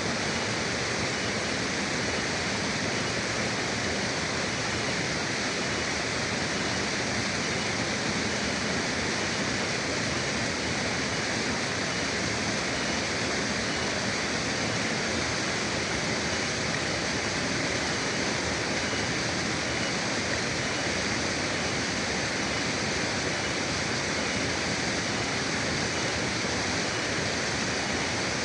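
River water flowing and rushing over rocks, a steady even roar with no change in level.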